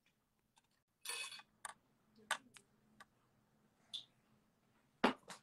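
A few scattered clicks and taps, with a short noisy rustle about a second in and the loudest, sharpest click near the end.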